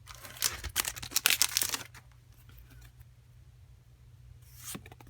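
Crinkling and tearing of a foil trading-card booster pack wrapper for about two seconds, then quiet, with a short rustle near the end.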